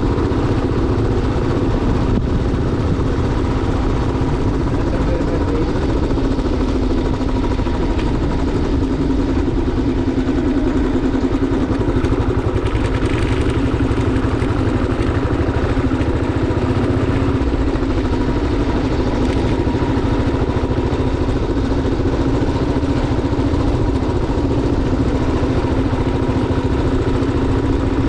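Motorcycle engine running steadily while riding, an even drone over a low rumble.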